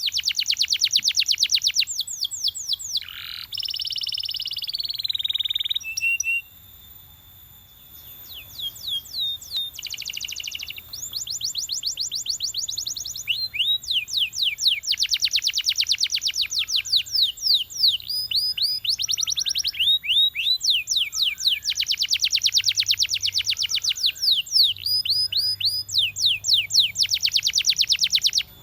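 Canary singing: fast trills of rapidly repeated notes, each sweeping downward, strung into phrases with short pauses between them, and a long held whistle a few seconds in.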